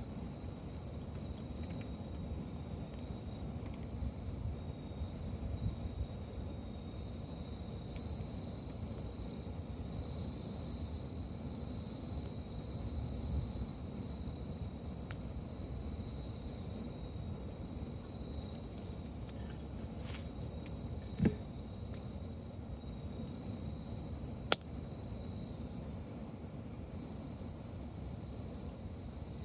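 Night insects chirping steadily, high-pitched, over the low crackle of a wood campfire, with a few sharp pops from the fire, the loudest two near the last third.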